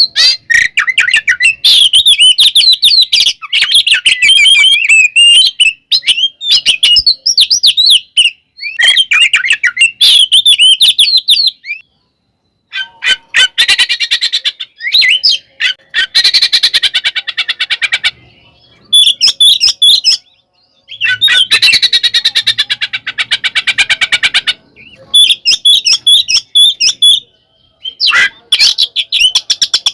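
Oriental magpie-robin (kacer) singing loudly in fast, varied whistled phrases for the first dozen seconds, then two long harsh rapid chattering rattles (the 'ngekek' of a bird in fighting mood), with more song near the end.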